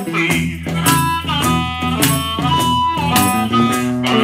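Chicago blues band playing an instrumental passage: amplified harmonica holding and bending notes over guitar and the steady scraping beat of a washboard.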